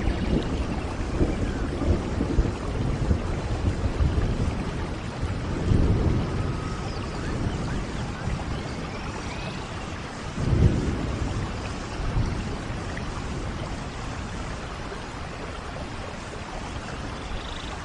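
Steady rainfall with low rumbles of thunder, the strongest about six and ten and a half seconds in.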